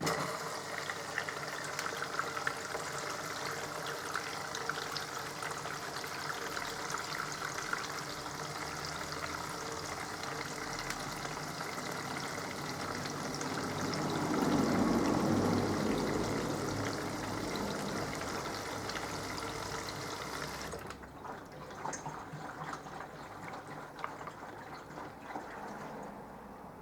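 Water running into or through a Minicolo mini washing machine, starting suddenly. The rushing hiss cuts off sharply about 21 seconds in, leaving fainter water sounds that die away.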